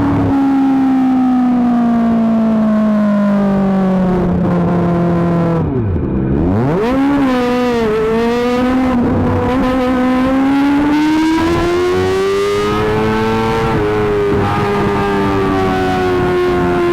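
Kawasaki ZX-25R 249 cc inline-four engine running through an Akrapovic GP titanium exhaust, its pitch changing with the revs. The note falls steadily for several seconds, dips sharply and climbs back about six seconds in, then rises slowly and eases off again near the end.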